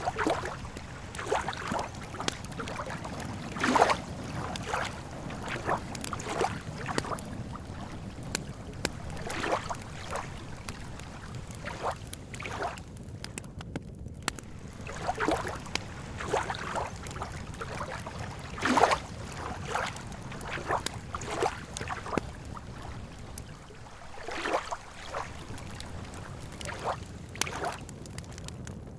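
Small waves lapping and sloshing irregularly against the lakeshore, a soft splash every second or so, over a steady low rumble.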